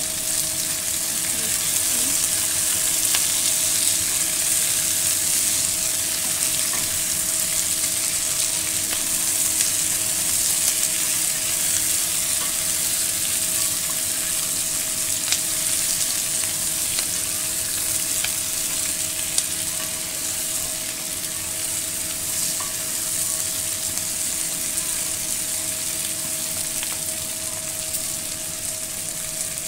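Chicken pieces with bell peppers and onion sizzling in a pot as they are stir-fried, with occasional light clicks from the stirring and a faint steady hum underneath.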